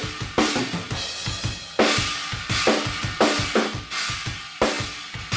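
Room-mic recording of a drum kit playing a steady beat, with kick, snare and cymbal hits, played back through a channel-strip plugin with its saturation turned up.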